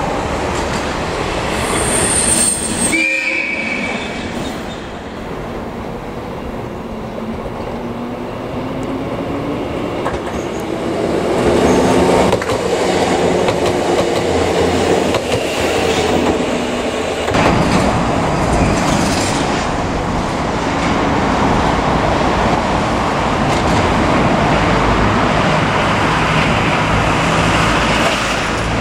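Shinano Railway 115 series electric train running on the rails, with a brief high wheel squeal near the start and the traction motors' whine rising slowly in pitch as it picks up speed. About two-thirds of the way through, the rumble turns abruptly louder and deeper.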